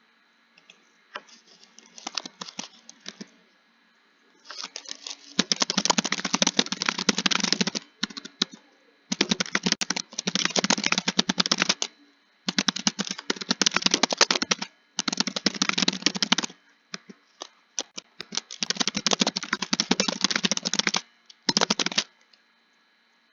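Fast typing on a computer keyboard, in runs of rapid keystrokes lasting one to three seconds with short pauses between them. The first few seconds hold only scattered keystrokes.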